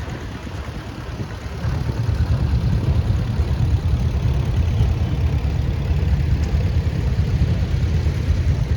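Old farm tractor engine running at low speed in a parade, a steady low rumble that grows louder about two seconds in as the tractor comes closer.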